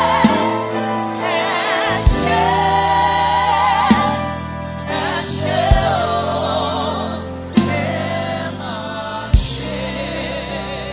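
Gospel worship song: several voices singing a slow melody over a band, with a drum hit about every two seconds.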